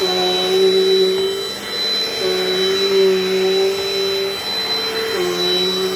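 Dirt Devil Dynamite Plus vacuum cleaner running with a steady motor hum and a high whine, the pitch of the hum shifting slightly up and down every second or two.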